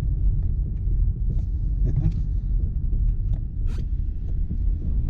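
Steady low rumble of a car driving slowly on a slushy, snow-covered road, heard from inside the cabin, with scattered light clicks and ticks.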